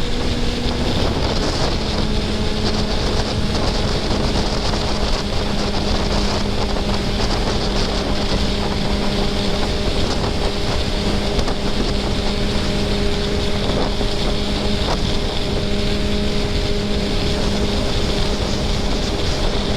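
2024 Kawasaki ZX-10R's inline-four engine running at steady cruising revs under a constant rush of wind noise on the microphone, its pitch settling slightly lower about two seconds in and then holding.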